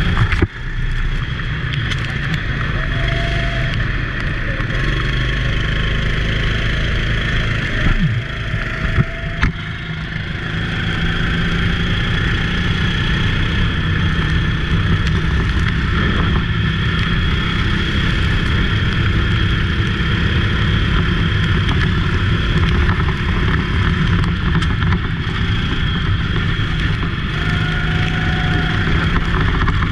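Racing go-kart engine running continuously at race pace, its pitch holding fairly steady. A few sharp knocks sound about a third of the way in, as the level briefly dips.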